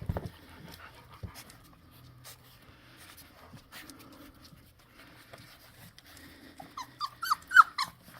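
Young puppies whimpering and yelping in a quick run of short, high cries near the end, after a soft thump at the start.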